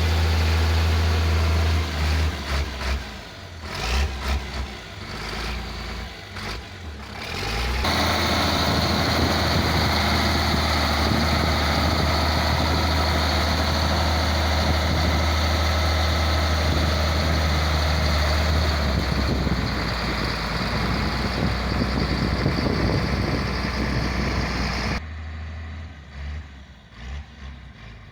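Heavy diesel engine of road-grading machinery running with a steady low drone. It is louder and steadier for most of the middle, and switches abruptly to a quieter, duller engine sound near the end.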